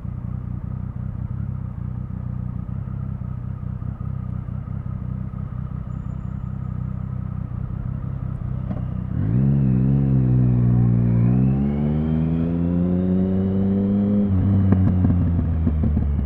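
Triumph Speed Triple 1050's inline three-cylinder engine running at a steady low note for about nine seconds, then accelerating hard. The pitch climbs, dips at a gear change and climbs again, then falls away near the end as the throttle closes.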